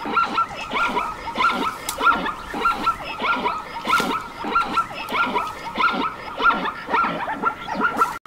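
Zebra calling in a long, unbroken series of short, yelping barks, about two to three a second.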